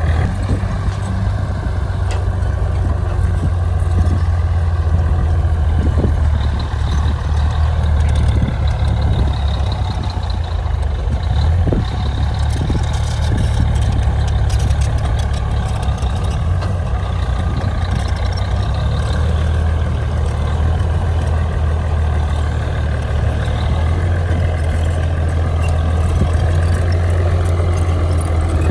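Heavy diesel engine of earthmoving machinery running steadily with a deep, even drone, with a few faint knocks.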